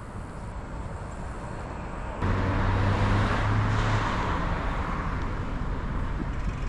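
Road traffic passing close by, with a vehicle going by loudly from about two seconds in and slowly fading, over a steady low wind rumble on a bike-mounted camera's microphone.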